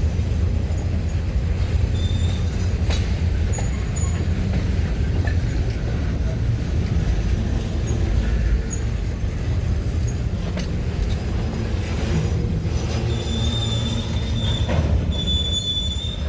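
Missouri & Northern Arkansas train rolling by on the rails: a steady low rumble of wheels and cars, with a few sharp clicks. A thin, high wheel squeal comes in briefly about two seconds in and again several times toward the end.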